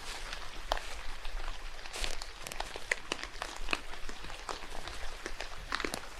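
Rain falling in a forest: a steady hiss with many irregular sharp drop ticks, and a few heavier crunching strikes from footsteps on a wet path.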